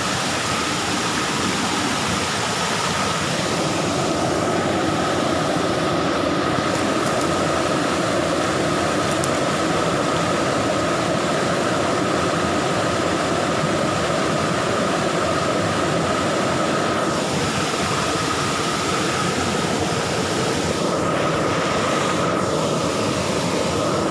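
Motorcycle engine running steadily during a ride, mixed with continuous road and wind noise and a steady high whine.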